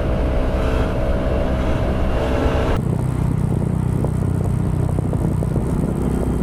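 Motorcycle engine running with wind noise on a rider-mounted camera. Nearly three seconds in, the sound changes abruptly to a different, lower and steadier engine sound.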